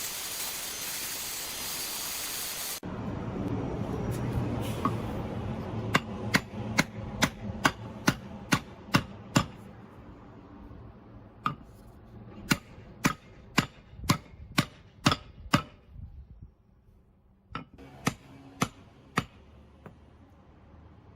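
A steady hiss that cuts off suddenly about three seconds in, followed by three runs of hammer strikes, about two or three sharp blows a second, during work on an axe.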